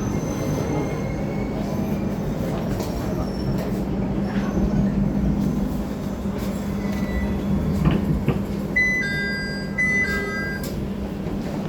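Electric train and platform noise: a steady low hum over a constant rumble. About nine seconds in, an electronic two-tone chime sounds twice.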